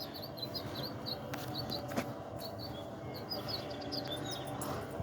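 Small birds chirping: short, high chirps repeated several times a second, with a couple of faint clicks in between.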